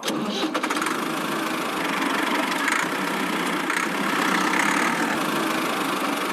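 The motor of a miniature DIY tractor running steadily.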